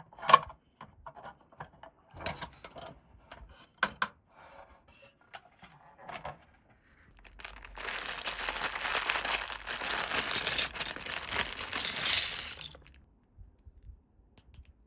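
Unboxing toy packaging: a few sharp clicks and taps, then about five seconds of continuous tearing and crinkling of the packaging that stops suddenly.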